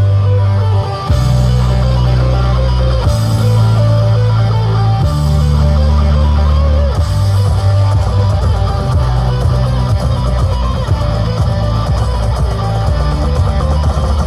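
Very loud music played through a 10,000-watt-class EREN Audio sound system for an SPL test. Heavy, sustained bass notes step to a new pitch about every two seconds.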